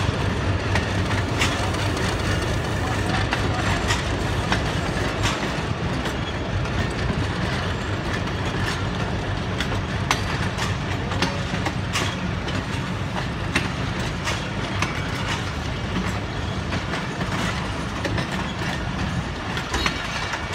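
Passenger coaches of a departing train rolling past, a steady low rumble with irregular sharp clicks and knocks from the wheels on the track. The rumble weakens near the end.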